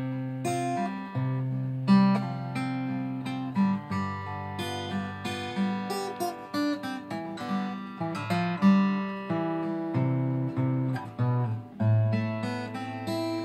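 Solo acoustic guitar played in 3/4 time: arpeggiated chords with bass notes, with fills and melody notes worked in over the accompaniment.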